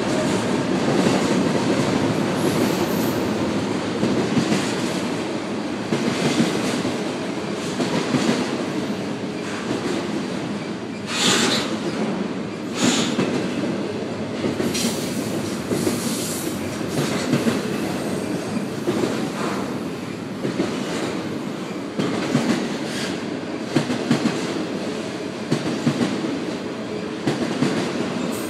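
A train rolling past on the rails: continuous wheel rumble with many short knocks of the wheels over the track, and brief sharper bursts about eleven and thirteen seconds in.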